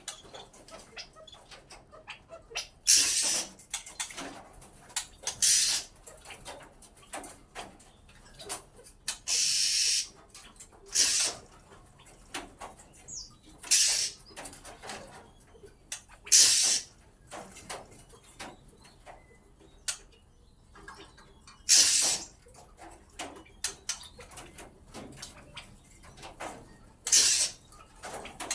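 Caged birds, a white-rumped shama and an oriental magpie-robin, giving short harsh calls every few seconds, with faint chirps and ticks between. One longer harsh stretch comes about a third of the way in.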